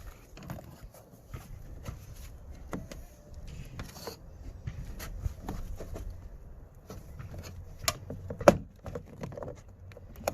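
Plastic door trim panel of a Toyota Matrix being pried loose from its retaining clips: scattered clicks and knocks, with two sharp snaps about eight seconds in.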